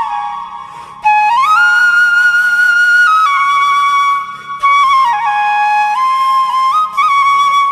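Background music: a solo flute melody with slow, sliding notes over a soft, steady low drone.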